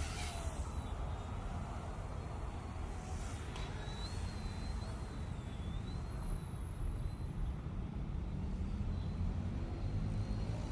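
Small E110 Sentry RC helicopter hovering, its motor and rotor giving a faint high whine that wavers slightly in pitch, over a steady low rumble.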